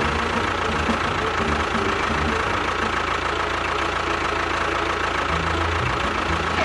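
Small motor running steadily with a high, even whine.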